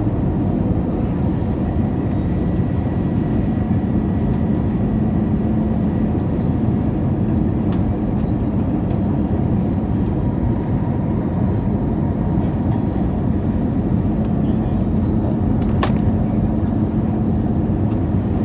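Steady engine and airflow noise inside the cabin of an Airbus A321 airliner on approach to land, an even rush with a faint low hum under it.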